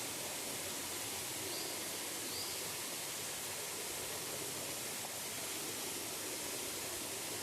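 Waterfall: a steady, unbroken rush of falling water. Two faint, short high chirps come about two seconds in.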